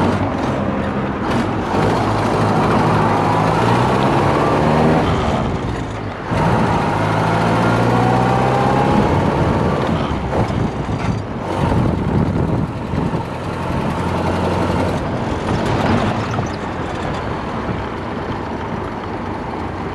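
A Ford Model A speedster's four-cylinder engine pulling as the car accelerates, its pitch rising, dropping briefly about six seconds in at a gear change, then climbing again, with wind and road noise.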